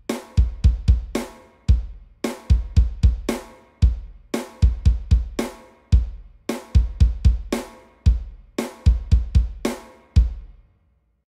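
Drum kit played in a repeating beat: heavy bass drum strikes under ringing cymbal hits, in groups about every two seconds. It stops near the end.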